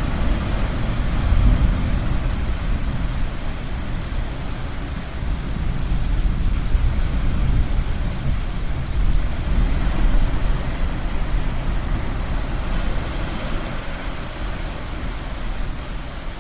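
Ocean waves rushing in a steady wash that swells and eases, with a deep rumble of thunder dying away in the first couple of seconds.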